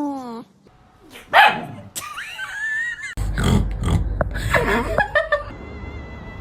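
A string of cat vocalisations across quick cuts: a short falling meow at the start, then wavering, warbling cries and rougher, noisier calls. A steady high tone sets in about five and a half seconds in.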